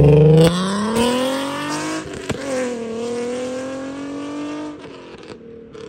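Nissan 350Z's 3.5-litre V6 accelerating hard away, revs climbing through a gear, dropping at an upshift a little past two seconds in, then climbing again. It grows fainter as the car pulls into the distance.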